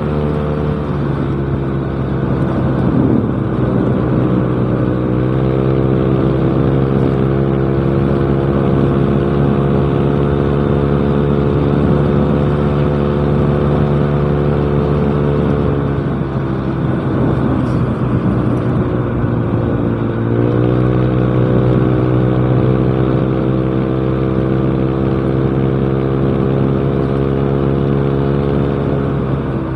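Yamaha Mio Smile scooter's single-cylinder four-stroke engine running through a cheap aftermarket exhaust while riding. The engine note drops twice, about a second in and again about halfway, as the throttle eases off, and climbs back each time as it picks up speed.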